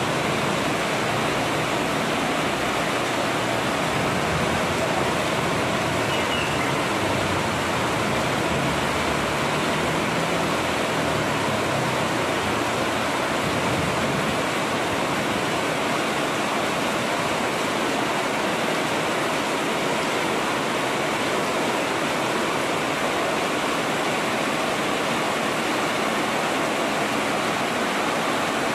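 Heavy tropical rain falling steadily, with runoff pouring off a roof edge and splashing close by.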